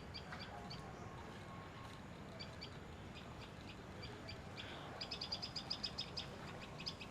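Small songbirds chirping faintly, with scattered short, high chirps and a quick run of repeated chirps about five seconds in.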